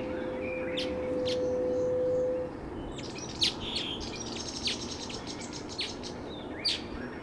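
Buff-spotted flufftail giving its long, low hooting call: one steady note about two and a half seconds long, swelling slightly before it stops. Other small birds chirp and tick in the background.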